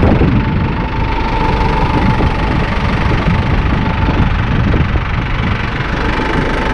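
A vehicle engine running steadily with a low rumble and a faint, steady high whine over it.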